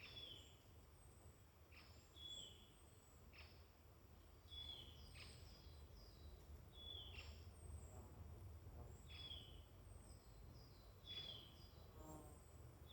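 Faint woodland birdsong: one bird repeats a short call that slides down in pitch every second or two, with thinner, higher calls from other small birds between, over a low steady rumble.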